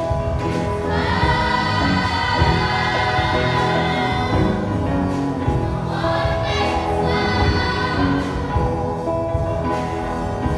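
Choir singing gospel-style music over instrumental accompaniment, with two long held phrases.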